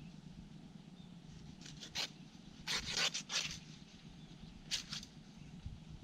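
Banana leaves being handled and folded: several short, crisp rustles and scrapes, with a cluster near the middle and a pair near the end, over a steady low hum.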